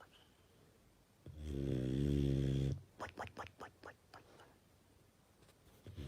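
A pet snoring: a long, rough, pitched snore about a second in, then a run of quick soft puffs, and the next snore starting near the end.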